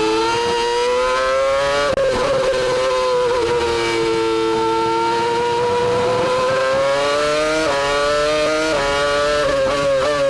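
Formula 1 V10 engine heard from onboard the car at high revs, its pitch rising and falling through a lap, with quick gear changes about two seconds in and a cluster of them near the end.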